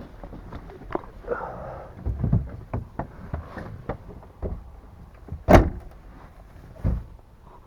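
A series of irregular clunks and knocks with no engine running, the loudest a sharp bang about five and a half seconds in and a duller thump near the end.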